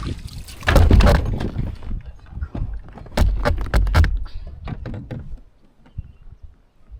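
Irregular knocks, bumps and rustling on a fishing kayak, loudest about a second in and again around three to four seconds in, with a few sharp clicks as it dies down.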